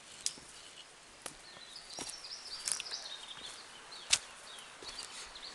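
Footsteps on a forest trail, with a few sharp scuffs and snaps, the loudest about four seconds in. A bird chirps briefly around the middle.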